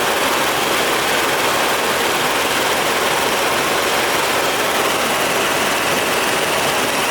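Helicopter in flight: a steady, loud, even rush of engine and rotor noise with no clear pitch.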